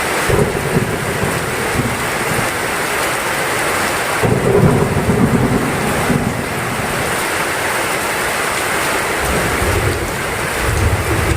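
Heavy rain pouring steadily, with low rolling thunder rumbling under it in waves: once at the start, most strongly from about four seconds in, and again near the end.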